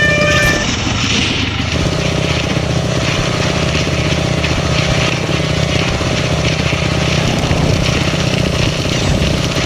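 Motorcycle engine running steadily at an even speed while being ridden.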